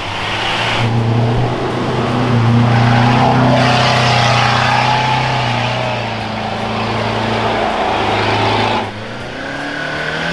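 Off-road 4x4 engine running hard at high revs under load as it drives through deep water, with a rushing splash of water through the middle. The revs and the splashing drop away suddenly near the end.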